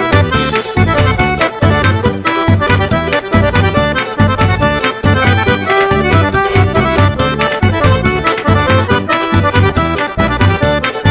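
Instrumental break of a forró-style festa junina song: accordion playing the melody over a steady, bouncing bass and percussion beat.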